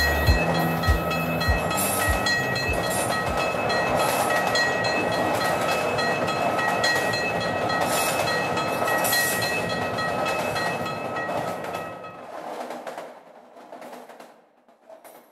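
Train-ride ambience, the steady running noise of a train with faint clicks, closing an electronic ambient track. A few last deep bass beats sound in the first second or so, and the whole sound fades out from about twelve seconds in.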